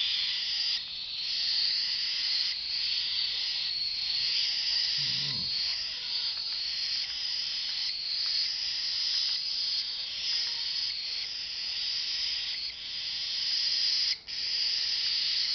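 Cockatiel chicks giving raspy food-begging calls, an almost unbroken high noise with only short gaps, the sign of hungry chicks at a hand-feed.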